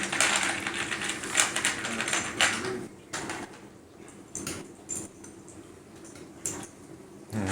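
Plastic Heroscape game pieces clicking and clattering on a table as they are handled, a dense run of clatter for the first few seconds, then scattered single clicks.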